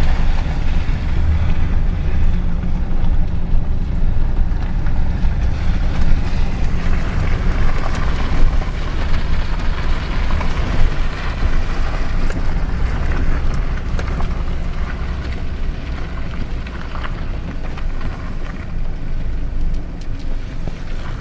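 Vehicle engine and road noise while driving, a steady low rumble with some wind noise on the microphone.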